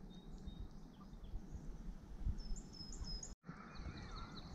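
A small bird chirping in short high notes over a low, steady outdoor rumble: a run of four chirps about two and a half seconds in, then more just before the end. The sound drops out completely for an instant about three and a half seconds in.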